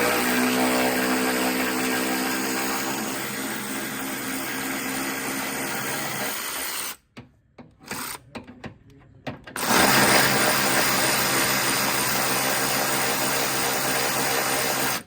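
Handheld power drill motor running in two long runs, about seven seconds and then about five seconds, with a few light clicks in between.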